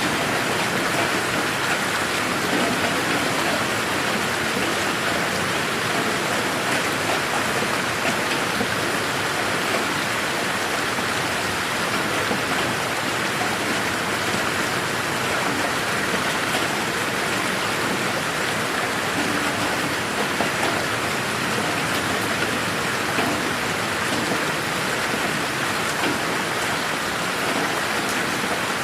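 Steady rain falling in a garden, an even hiss of many drops with a few individual drop taps, unchanging throughout.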